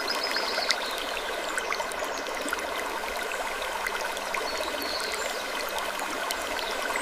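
Steady running-water ambience like a flowing stream: an even hiss with many small scattered ticks and a few faint high chirps, and no distinct creak standing out.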